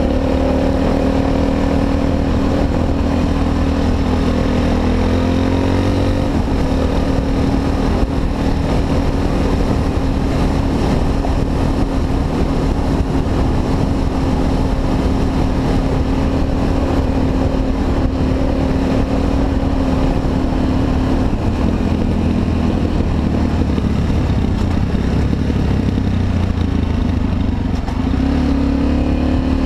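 Honda XR250 Tornado's single-cylinder four-stroke engine running under way on a trail ride, holding a steady pitch. Engine speed changes about six seconds in and again about twenty seconds in.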